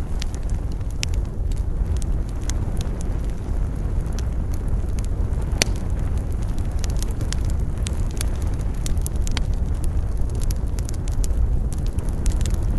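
Campfire burning, wood crackling with frequent irregular sharp pops, over a steady low rumble of wind.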